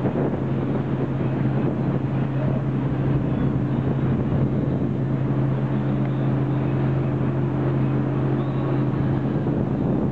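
Motorboat engine running at a steady speed, a constant low drone, over the rush of wind and water.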